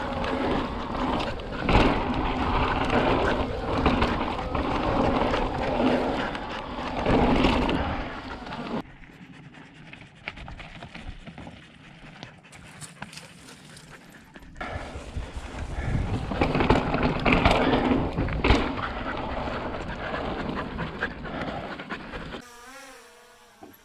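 Wind rush and rolling noise from a mountain bike ride, in segments that cut abruptly from loud to quieter and back. Near the end it switches to a faint buzzing hum that wavers in pitch.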